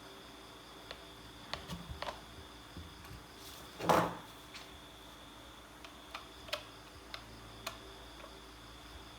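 Scattered light clicks and taps of small parts being handled, with one louder clatter about four seconds in, over a faint steady high-pitched tone.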